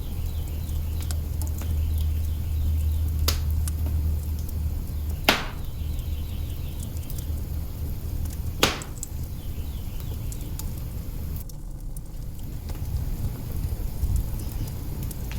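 Wood fire burning in an open hearth, crackling steadily with a few sharp loud pops, three standing out above the rest. A low rumble sits under it and fades away about ten seconds in.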